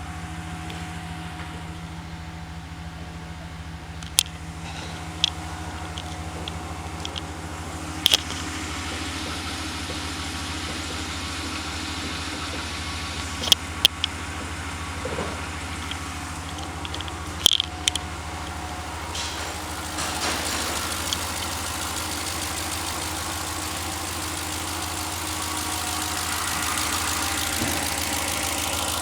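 2019 Ram 5.7-litre Hemi V8 engine idling steadily, with a few sharp clicks over it and the sound getting slightly louder after about twenty seconds.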